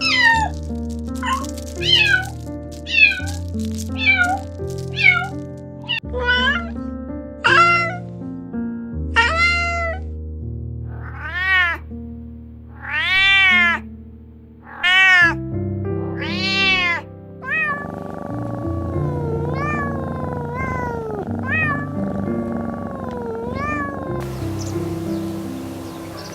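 A cat meowing over and over, short rising-and-falling meows about once a second, fainter in the last third, over background music.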